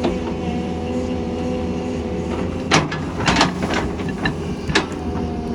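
Doosan excavator's diesel engine running steadily, with a cluster of sharp knocks and clanks from about halfway in to near the end.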